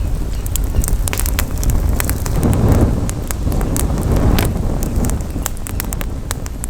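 Campfire crackling, with many sharp irregular pops and snaps, over a low rumble of wind on the microphone that swells twice.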